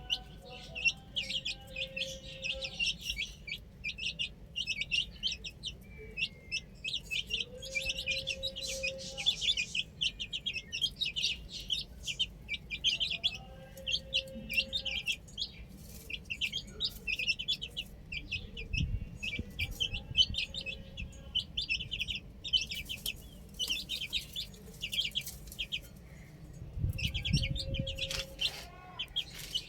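A group of baby chicks peeping continuously in quick, high chirps, with a couple of brief low rumbles.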